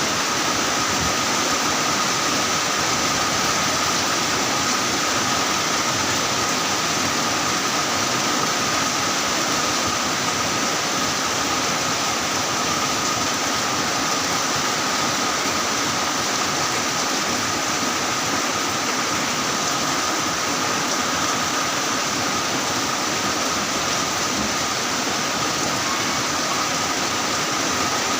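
Heavy rain falling steadily, a dense even hiss with no breaks. A faint steady high tone runs through it.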